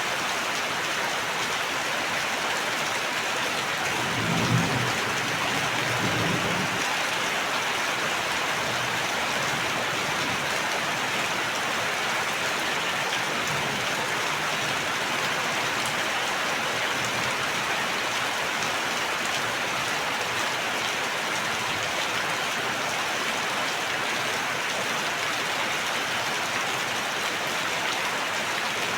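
Steady heavy rain falling on a surface, an even hiss of many drops. About four seconds in there is a brief low rumble, with a second, weaker one around six seconds.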